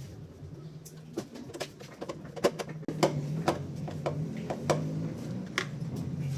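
Scattered clicks and light knocks of hand work on washing-machine parts during a transmission repair. A low droning tone comes and goes beneath them.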